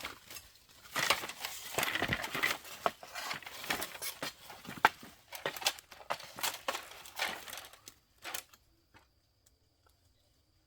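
Irregular rustling and crunching with many sharp clicks, as of dry material being handled or crushed, stopping about eight seconds in. A faint steady high tone follows.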